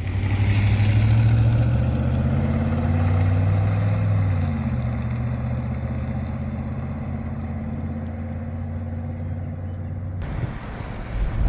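Pickup truck engine running steadily at low revs, its pitch easing down slightly about four seconds in.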